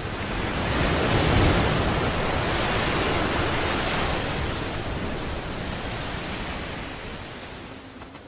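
Rough, churning sea water: a steady rush of waves and surf that swells over the first second or two and fades away near the end.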